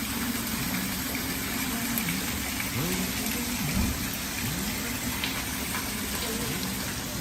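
Steady rush of running water, with faint low sliding tones wavering up and down beneath it.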